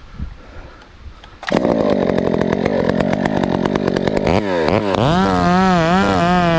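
Husqvarna 372XP chainsaw, fitted with a ported muffler, cutting in suddenly about a second and a half in and running roughly. About four and a half seconds in it revs up and then holds at high revs, its pitch wavering up and down.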